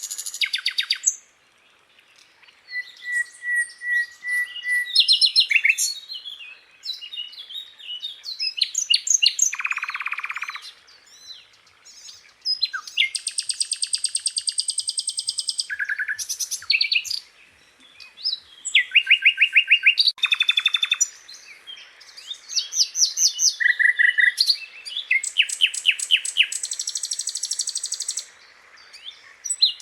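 Sikatan londo flycatcher singing a varied song of fast trills, rapid repeated ticking notes and short high whistles, with brief pauses between phrases. This is a masteran song used to tutor caged songbirds.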